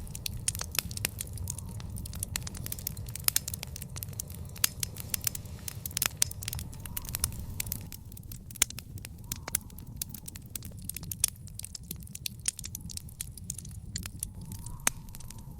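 Wood fire in an outdoor fire pit crackling, with frequent irregular sharp pops over a steady low rumble.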